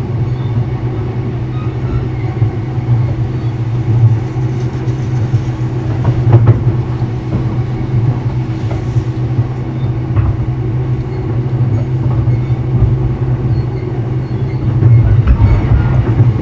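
Running noise inside a JR East E233-0 series motor car: a steady rumble of wheels on rail, with the hum of its Mitsubishi IGBT VVVF inverter and traction motors and a few rail-joint clacks.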